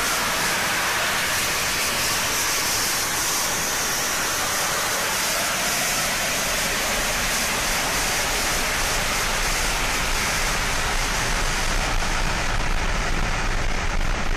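Gas pipeline venting: a loud, steady roaring hiss of gas escaping. Near the end the hiss grows duller and a lower rumble comes up.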